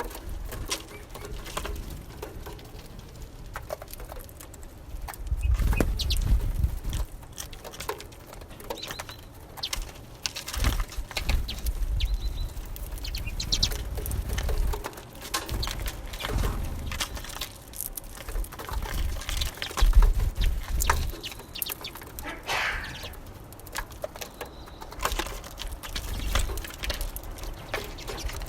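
Small songbirds at a seed feeder: wings fluttering, many light taps and clicks of pecking, and a few short high calls, over low rumbling that comes and goes.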